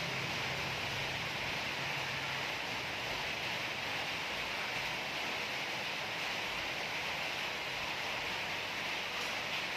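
Steady background hiss with no distinct events, and a faint low hum that fades out about two and a half seconds in.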